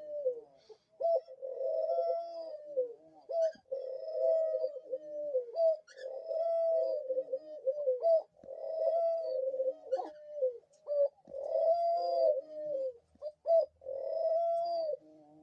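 Pet dove cooing repeatedly: a string of about seven drawn-out coo phrases, each a second or two long, held near one pitch and dipping at the end, with short pauses between.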